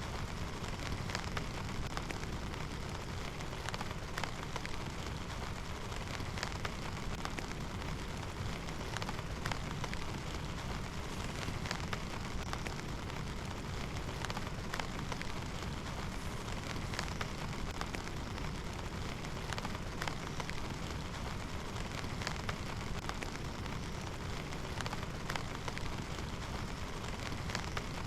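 Steady heavy rain, with many separate drops striking close by.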